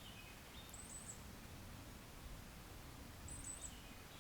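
Faint, short, very high-pitched bird chirps, one about a second in and another about three seconds in, repeating about every two and a half seconds, with fainter lower notes between them.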